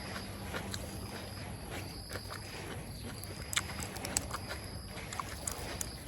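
Light rain falling steadily, with a short high-pitched call repeating about once a second and scattered small clicks.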